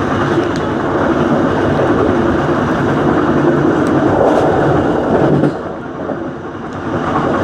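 Passenger train running along the line, a steady loud rumble and rattle of the rails and carriage; it drops quieter for a second or so near the end, then picks up again.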